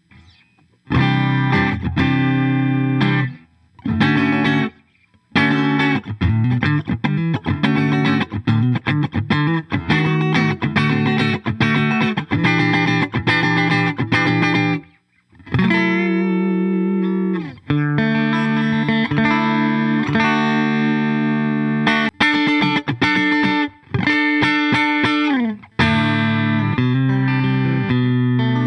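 Clifton Alnico Stratocaster electric guitar playing a run of strummed chords and picked notes. It starts about a second in and breaks off briefly a few times. Near the middle, one passage slides down in pitch.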